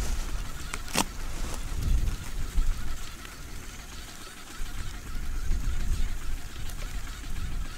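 Wind buffeting the microphone in a low, uneven rumble over a faint crackling hiss, with one sharp crack about a second in.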